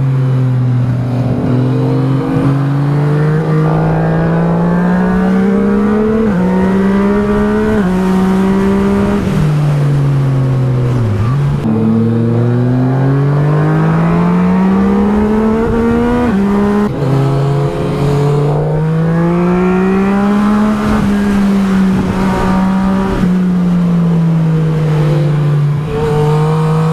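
Yamaha MT-09 SP's three-cylinder engine through an Akrapovič exhaust, heard from on board at speed. Its note climbs under throttle and steps down at gear changes several times, with a dip as it slows and pulls away again about 11 seconds in.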